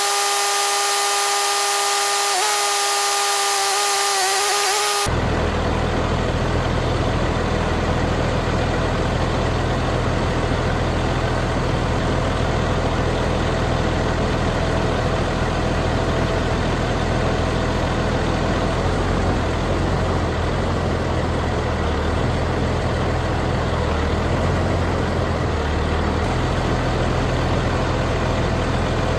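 A steady high-pitched mechanical whine with several held tones that cuts off suddenly about five seconds in, followed by a large engine running steadily at idle with a low hum.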